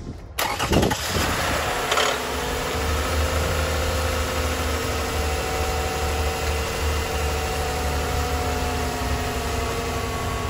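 2012 Toyota Sienna's 3.5-litre V6 cranking and catching about half a second in, then settling into a steady idle. It is the first start after a radiator replacement and coolant refill.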